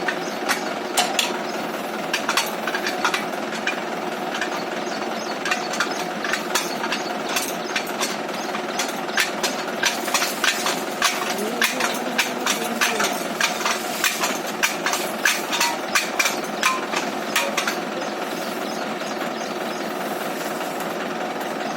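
Tractor engine running steadily under load, with many sharp irregular knocks and clanks over it, coming thickest in the middle stretch.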